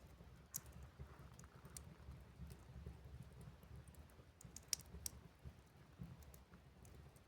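Wood fire crackling in a wood-burning stove: scattered, irregular sharp pops and ticks, one louder crack a little under five seconds in, over a faint low rumble.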